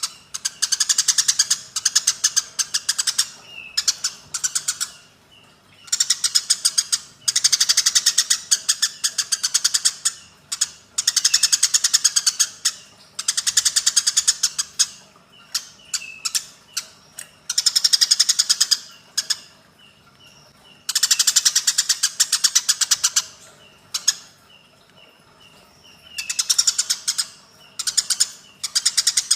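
Eurasian tree sparrows giving harsh, rapid fighting chatter. The chatter comes in bursts of one to three seconds, about nine of them with short pauses between, and single chirps in the gaps.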